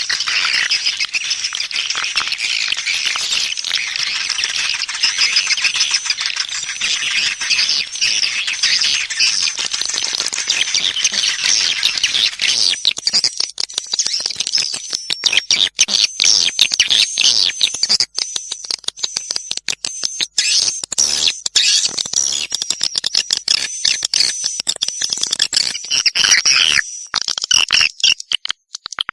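Swiftlets calling in a lure-call recording: dense, high chattering twitters and clicking chirps. After about twelve seconds they thin out into sparser, choppy bursts.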